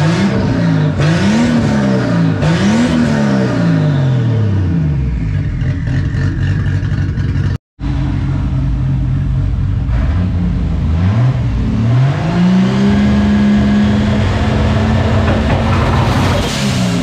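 Turbocharged Mk3 Toyota Supra engine revved with the exhaust open at the downpipe: several quick rev blips rising and falling, then settling to idle. After a sudden cut it idles, revs up and is held at a steady pitch on a two-step rev limiter for about four seconds before dropping back near the end.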